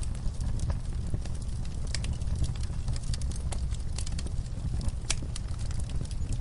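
Campfire burning, with irregular sharp crackles and pops over a steady low rumble of flame.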